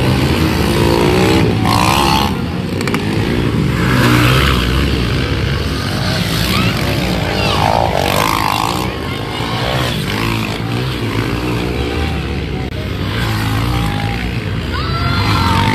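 Pit bike engines running and revving during a race, their pitch rising and falling as the riders work the throttle.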